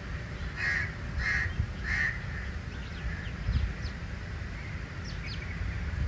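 Birds calling: three loud calls about two-thirds of a second apart in the first two seconds, then scattered fainter short chirps.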